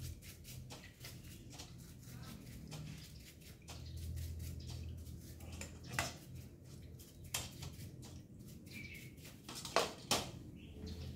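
Small metal tools and bicycle parts being handled during an overhaul: scattered light clicks and taps over a steady low hum, with a few sharper knocks about six, seven and ten seconds in.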